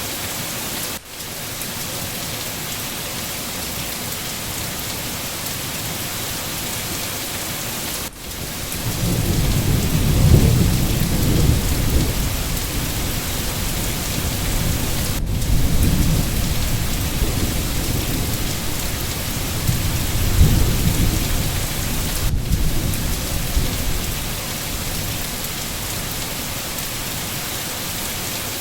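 Steady rain hiss, with a low rumble of thunder rolling in about nine seconds in. The rumble swells a few times and dies away a few seconds before the end. The hiss drops out briefly every seven seconds or so.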